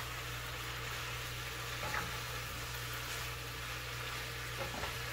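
Beef, onion and bell pepper stir-fry sizzling gently in a nonstick pan as it is stirred with a wooden spoon, with a couple of faint knocks of the spoon against the pan.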